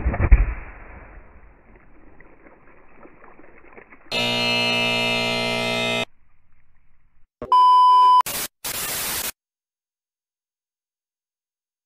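Edited-in sound effects: a thump with a hiss trailing off, then a harsh electronic buzzer for about two seconds, a short steady beep, and two brief bursts of static.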